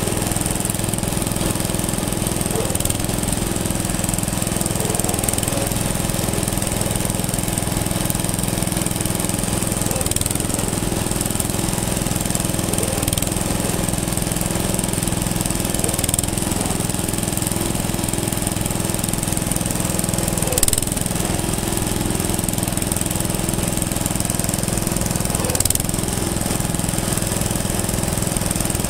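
An engine running steadily at an even speed, with a rapid, regular beat.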